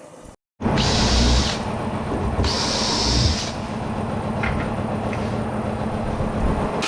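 Steady workshop machine noise with a low hum, cut twice by a sharp hiss about a second long, like compressed air being released.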